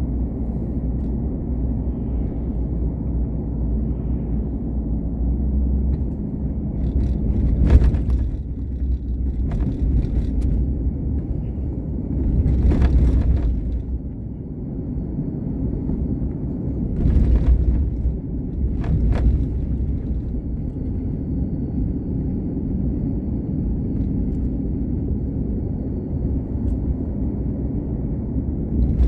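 Car driving, heard from inside the cabin: a steady low rumble of engine and road noise, with several brief louder surges of noise.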